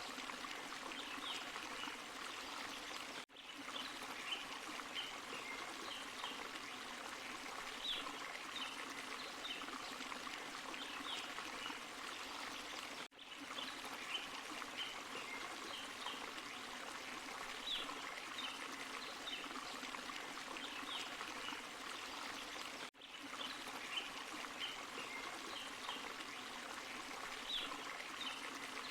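Forest waterfall and stream, water running and splashing steadily over rocks. The sound briefly drops out three times, about every ten seconds, where the recording is looped.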